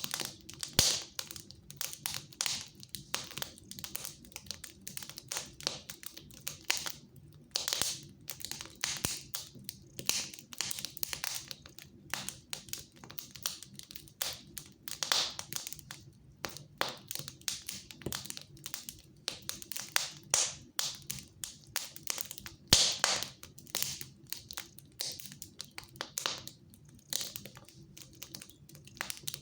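Fire crackling in a fireplace: irregular snaps and pops, several a second and some much louder than others, over a low steady hum.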